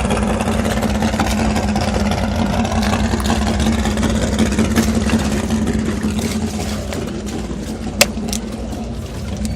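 Jet boat's big-block V8 engine running steadily, easing off slightly about six seconds in. A single sharp click comes about eight seconds in.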